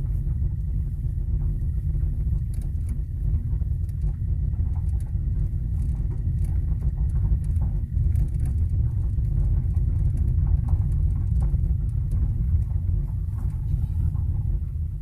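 Cabin of a 2017 Kia Rio driving over uneven road: steady low road rumble with scattered light knocks and clicks, the extraneous noise the owner hears coming from under the steering wheel.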